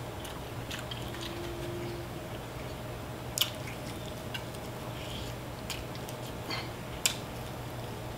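A person biting and chewing a sauce-covered fried chicken drumstick close to the microphone. A few short, sharp wet clicks and smacks stand out, the clearest about three and a half seconds in and seven seconds in, over a faint steady hum.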